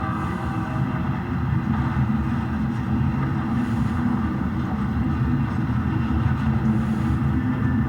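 HO scale model diesel locomotive running on the track, a steady low rumble.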